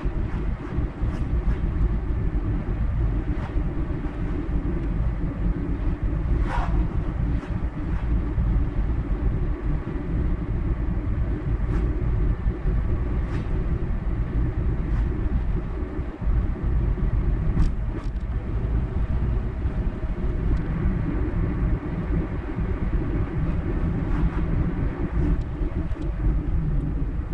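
Steady road and engine noise of a moving car, a low rumble throughout, with a few scattered short ticks.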